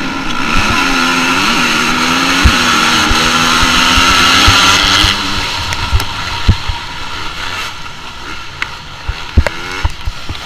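Motorcycle engine running, its pitch rising and falling with the throttle, under heavy wind rush. About five seconds in it eases off and drops quieter, with scattered knocks and a short rise in revs near the end.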